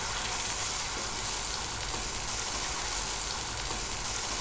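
Sliced small onions and ginger-garlic paste sizzling steadily in hot sesame oil in a stainless-steel kadai, frying until the paste loses its raw smell.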